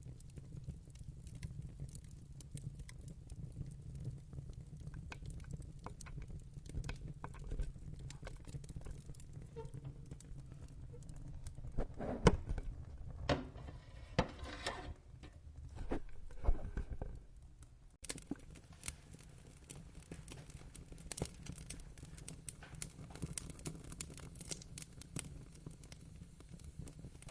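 Wood fire crackling in a fireplace: scattered sharp snaps and pops over a low steady rumble, with a denser run of louder pops around the middle.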